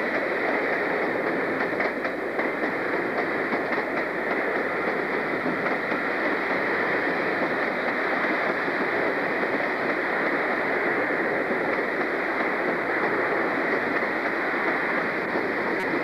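Train running steadily on the rails, an even continuous rumble with no break or change.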